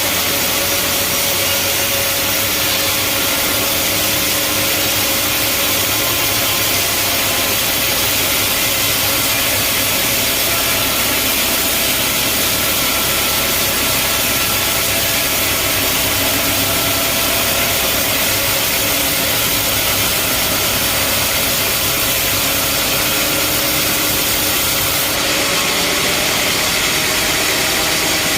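Band sawmill running steadily with a continuous loud hiss as the blade saws through a log. The tone shifts slightly near the end.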